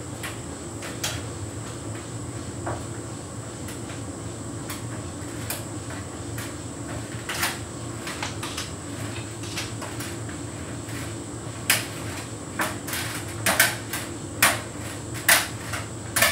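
Hotpoint heat pump tumble dryer running on a synthetics cycle: a steady low machine hum with scattered clicks and knocks of the load tumbling in the drum, several louder knocks in the last few seconds.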